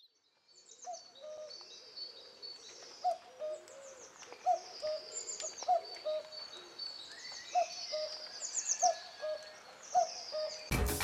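Birds calling on open moorland: a low two-note call repeated every second or so, over higher twittering song. Music cuts in loudly right at the end.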